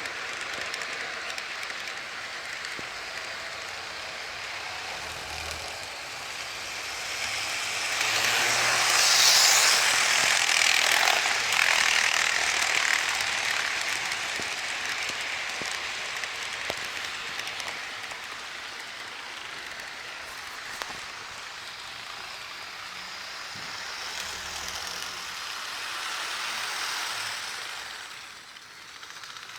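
HO scale model train running along the layout track, its locomotives' motors and the wheels of a long string of cars making a steady mechanical whir and rattle. It gets louder for several seconds about eight seconds in as the train passes close, and swells again briefly near the end.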